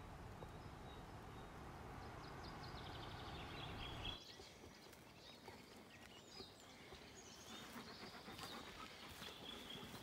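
Faint songbirds chirping and trilling in spring woodland. For the first four seconds a low steady rush lies under them, and it cuts off abruptly; after that the high bird calls and a few light clicks stand out over near quiet.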